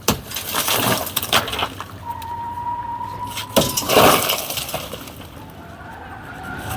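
Demolition work: several sharp knocks and breaking sounds with some glassy clinking as a roadside structure is broken up, and a steady high tone held for about a second midway.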